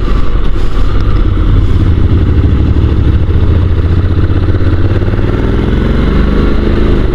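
Honda NC750 DCT parallel-twin motorcycle riding along, with a heavy low rumble of wind and road on the microphone; in the last couple of seconds the engine note climbs steadily as the bike accelerates.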